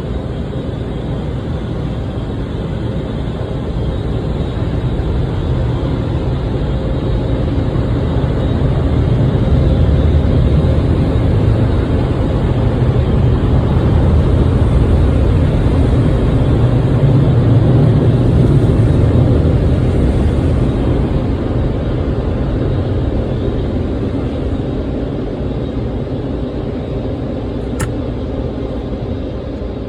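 Automatic car wash dryer blowers blasting air over the car: a steady rushing noise that swells in the middle and then fades.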